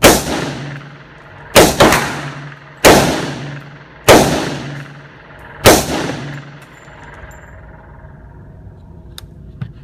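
Six gunshots at uneven intervals, two of them close together, each trailing off in a long echo. A few faint clicks follow near the end.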